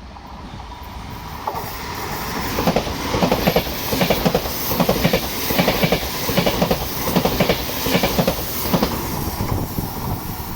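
Frecciarossa ETR 700 high-speed electric train passing, its wheels clattering over the rail joints in a quick, regular rhythm that grows louder about one and a half seconds in.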